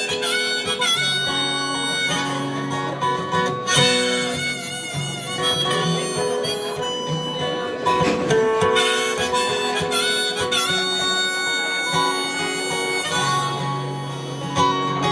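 Harmonica playing a melody of held notes over guitar accompaniment.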